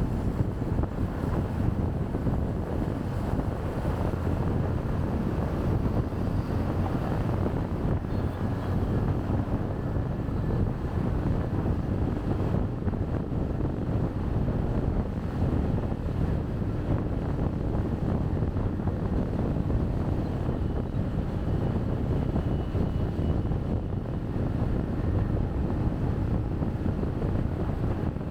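Wind buffeting a chest-mounted camera's microphone on a moving motorbike, over the low, steady hum of the bike's engine and street traffic.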